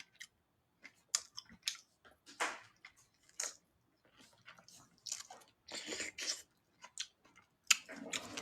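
Scattered short crunching and clicking noises close to the microphone, irregularly spaced, several a second at times.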